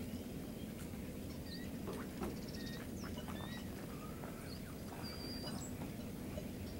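Small birds chirping, with many short whistled notes and quick pitch slides scattered throughout, over a steady low rumble.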